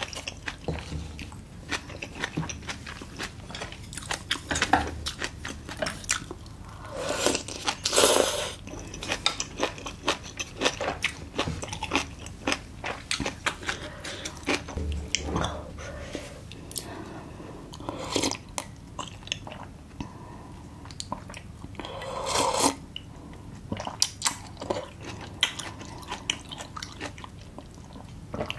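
Close-miked chewing and biting on spicy braised monkfish with bean sprouts: many short crunches and mouth clicks, with a few longer noisy bursts about eight seconds in and again past twenty seconds.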